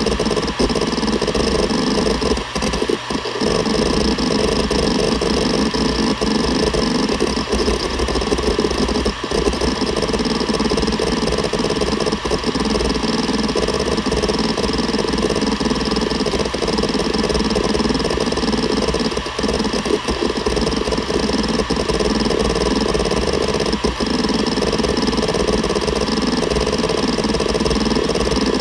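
Seagate Barracuda ES.2 ST31000340NS hard drive running: a steady whine from the spinning platters under continuous rapid head-seek chatter, with a few brief lulls.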